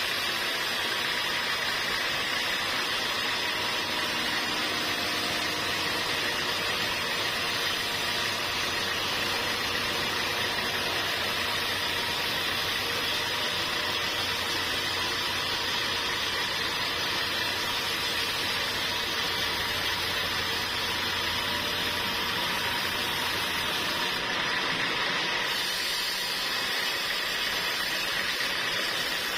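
Sawmill machinery running steadily, an even mechanical noise, with a low hum underneath that drops away near the end.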